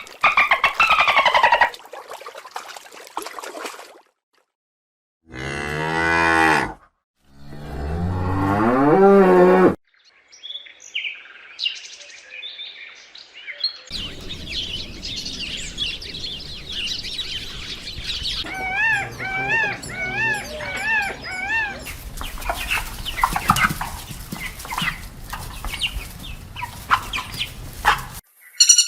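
A series of animal calls: two low, drawn-out cow moos a few seconds in, the second rising in pitch, followed by bird chirps and a repeated chirping song.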